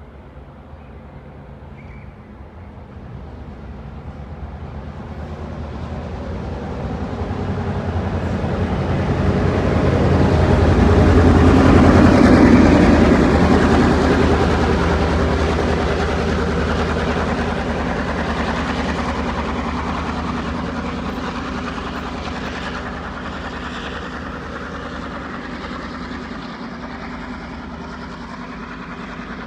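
Two diesel-electric locomotives, 42103 and GM10, passing as a light engine with no train behind them. The diesel engines and wheels grow louder, peak about twelve seconds in, then fade slowly as the locomotives move away.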